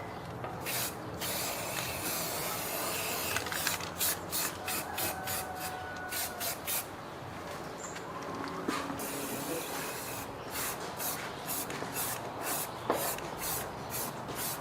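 Spray painting: a paint sprayer hissing in many short, quick bursts over a steady low background hum.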